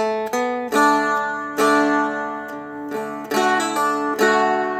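Seagull Merlin M4, a four-string mountain-dulcimer-style instrument, strummed through a short melody phrase: about nine notes picked out on the melody string against ringing open drone strings, with the notes changing every half second or so.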